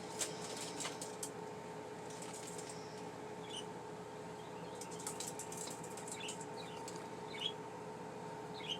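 Pet budgies making a few short, soft chirps, with scattered light clicks and rustles, over a steady low hum in the room.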